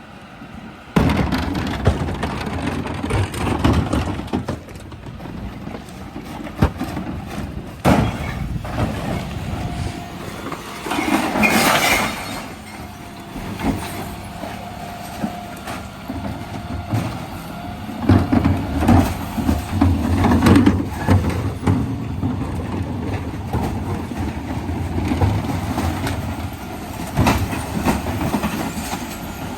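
Dennis Eagle Elite 6 refuse truck at work on a recycling collection: the engine runs under hydraulic load while the bin lifters tip bins, and glass, cans and plastics clatter and bang into the hopper in repeated bursts. A steady whine rises for several seconds in the middle.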